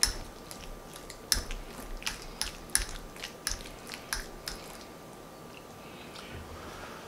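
Close-up chewing with wet mouth clicks and smacks: a quick run of sharp clicks for the first four and a half seconds, then quieter.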